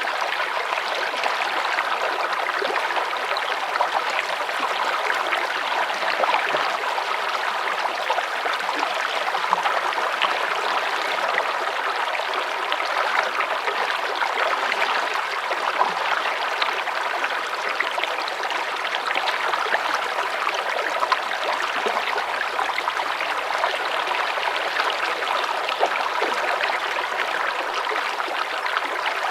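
A small stream of running water flowing and trickling steadily.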